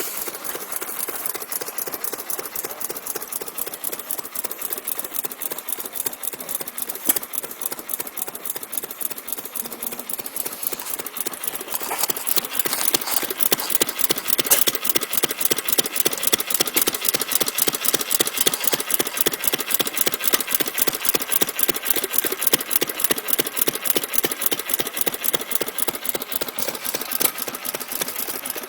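Antique 1 hp International Harvester Mogul gasoline engine running, a quick, even chugging beat with no pauses. The beats get louder about twelve seconds in.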